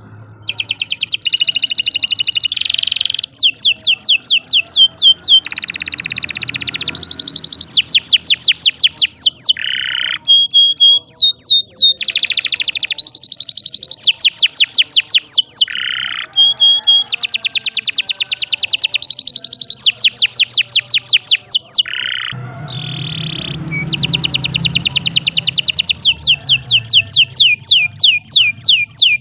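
Domestic canary singing a long, unbroken song of fast high trills and rapidly repeated sweeping notes. The phrase changes every second or two, with only brief breaks.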